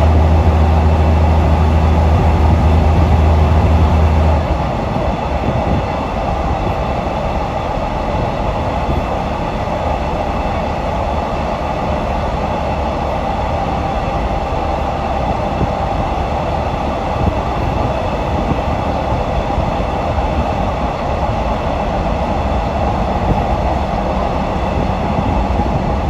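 Passenger train running, heard from a carriage: a steady rumble of wheels on track. A loud low hum with an overtone or two dies away about four seconds in.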